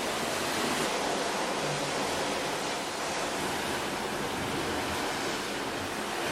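Steady rush of wind and sea around a cruise ship under way, an even noise with no breaks.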